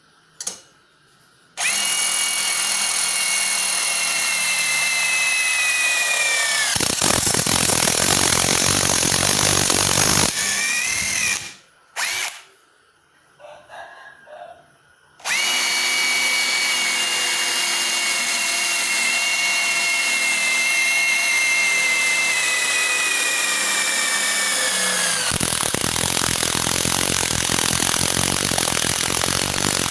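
Stanley SBI201D2K 18 V cordless impact driver running twice. Each time the motor spins with a steady whine that sags slightly in pitch, then breaks into rapid hammering as the impact mechanism engages under load. The first run stops after a few seconds of hammering, and the second is still hammering at the end.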